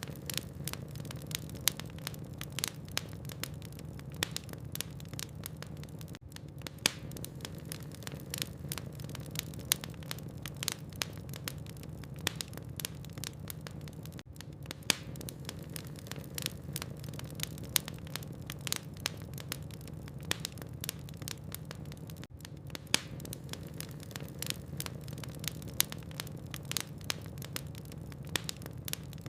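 Burning logs in a fireplace crackling: frequent irregular sharp pops and snaps over a low steady rumble of the fire.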